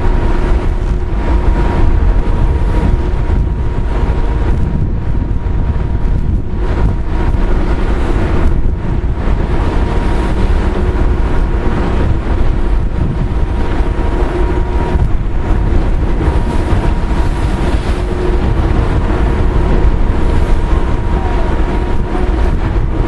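Strong wind buffeting the microphone aboard a car ferry, over the steady drone of the ferry's engines.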